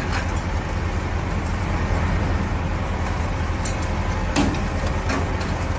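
Heavy vehicle engine running steadily with a low hum, with a few brief knocks, the clearest a little past the middle.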